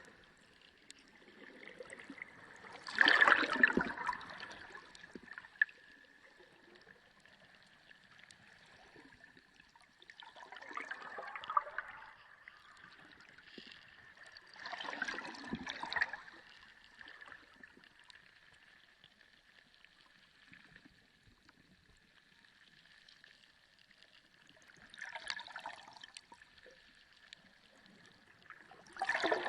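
Underwater sea sound: gurgling, bubbling swells of water every few seconds, the loudest about three seconds in, over a faint steady hiss with a thin high hum.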